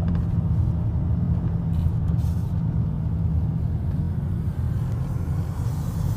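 A motor vehicle's steady low rumble.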